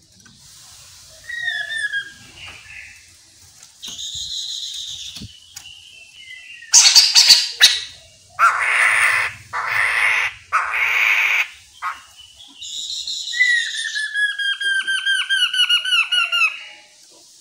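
Chestnut-capped laughingthrush (Poksay Mandarin) calling: a few short whistles and buzzy notes, a sharp clatter, then three long, harsh rasping calls, and near the end a fast run of short falling whistled notes, about four a second.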